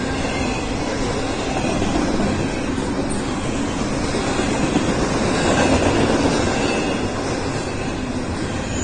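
BNSF double-stack intermodal freight cars rolling past: a steady rumble and rush of steel wheels on rail, swelling slightly a little past the middle.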